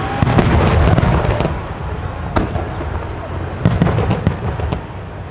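Large aerial firework shells bursting overhead. A loud burst of bangs and crackle comes just after the start, then single sharp bangs at about two and a half seconds and around four seconds.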